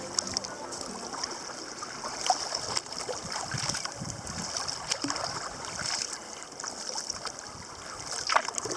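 Water splashing and lapping around a sea kayak on the move, with scattered small splashes and drips and a louder splash near the end.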